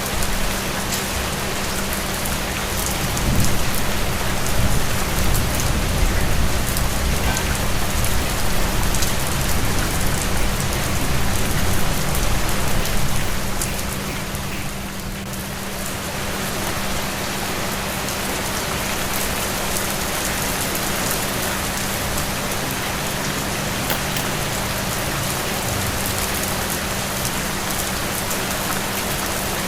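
Steady rain falling, a continuous hiss of drops on surfaces. A low rumble swells from about three seconds in and dies away by about fourteen seconds, under a faint steady hum.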